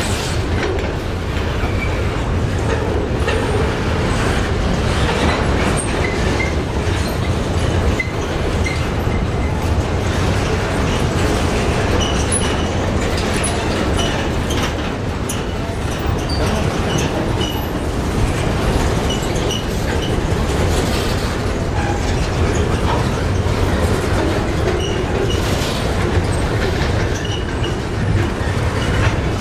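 Freight train of pulp boxcars rolling past close by: a steady, loud rumble of steel wheels on the rails with the rattle and clatter of the passing cars.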